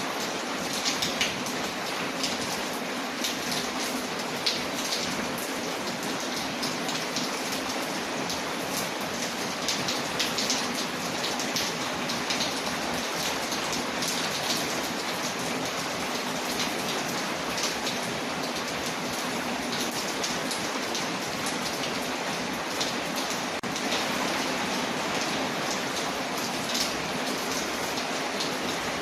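Steady rain on a window layered with a crackling fireplace fire: an even rushing hiss with many small, sharp crackles and ticks scattered throughout.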